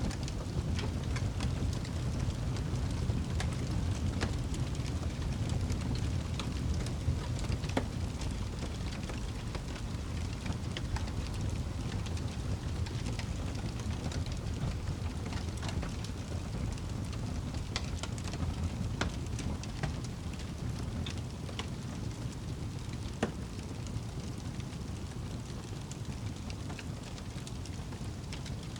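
Wood fire burning in a fireplace: a steady low rushing of the flames with scattered sharp crackles and pops from the burning logs.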